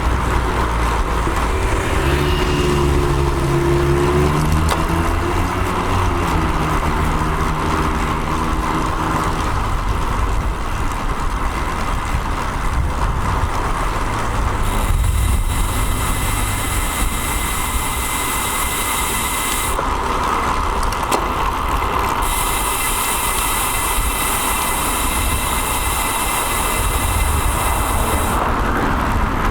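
Steady road-traffic noise picked up by a camera mounted on a moving road bike, with a motor vehicle's engine running close by for roughly the first ten seconds. Later there are two long stretches of high hiss.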